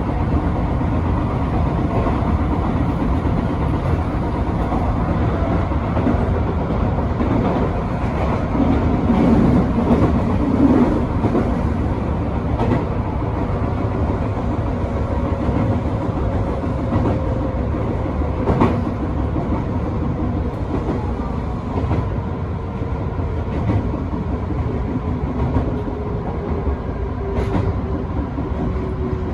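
Electric train running on rails: a steady rumble of wheels with occasional clicks over the track. In the second half, a humming tone from the train slowly falls in pitch.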